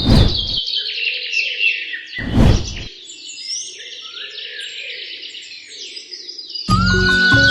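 Many birds chirping and twittering in quick, overlapping high calls. Two short whooshes cut across it, one at the very start and one about two and a half seconds in. Background music comes back in near the end.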